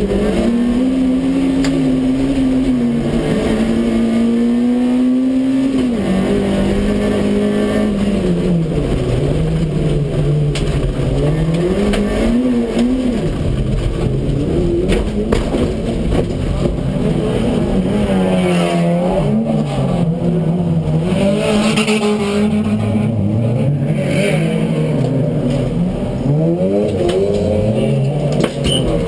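Citroën AX GTI rally-cross car's four-cylinder engine, heard from inside the cabin. It revs up and falls back again and again as the driver works through the gears and lifts for corners, over a steady haze of tyre and dirt-track noise. It eases off just before the end.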